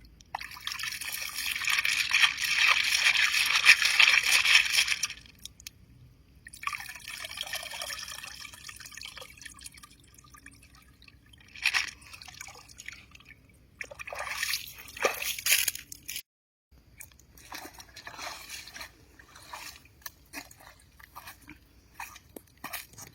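Water pouring and splashing in two long rushes, the first the loudest, followed by scattered splashes and small handling clicks.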